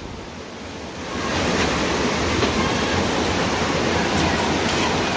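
Fast-moving floodwater rushing, a steady noise that grows louder about a second in.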